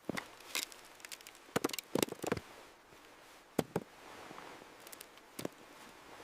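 Stones knocking together as they are stacked and wedged into a wall: a scattering of sharp clacks, several in quick succession, over faint wind.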